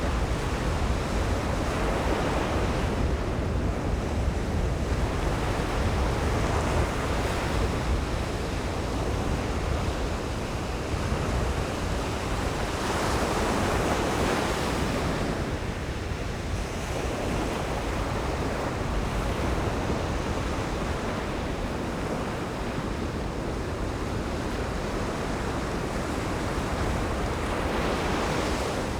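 Ocean surf breaking on a beach, waves washing in at intervals of several seconds, one stronger break about halfway through, with wind buffeting the microphone.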